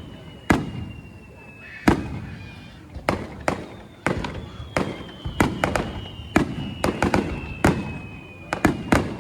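Aerial fireworks bursting in a rapid, irregular string of sharp bangs, each followed by a short echo. A faint high whistle slowly falls in pitch underneath.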